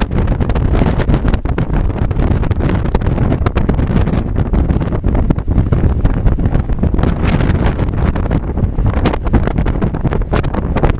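Strong, gusty north wind blasting the microphone: a constant heavy low rumble broken by crackling buffets.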